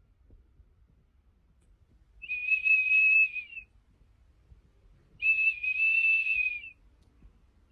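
Two long, steady, high whistled notes, each held for over a second, about three seconds apart.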